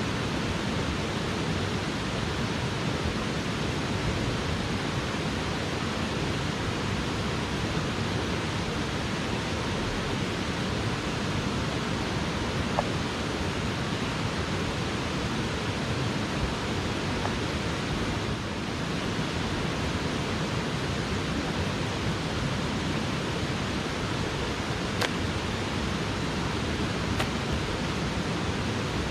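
Steady rushing of a fast mountain stream, even and unbroken, with a few faint ticks over it.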